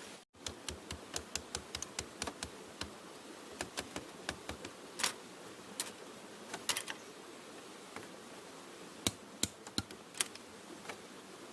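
Irregular light taps and clicks in quick succession, a few sharper ones about five, seven and nine seconds in, over a steady hiss.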